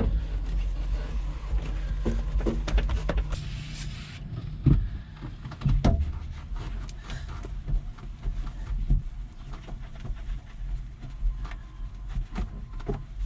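Short knocks, clicks and rubbing of hands cleaning up inside a machine's cab, over a steady low hum that weakens about four seconds in.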